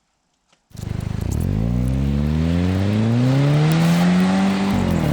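A motor starts abruptly and runs up, its pitch rising steadily for about four seconds, then settles to a steady note.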